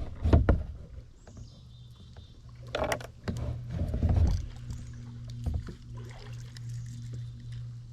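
Kayak paddling on a river: paddle strokes splashing and knocking against the plastic hull a few times in the first half, with a steady low hum underneath from about halfway through.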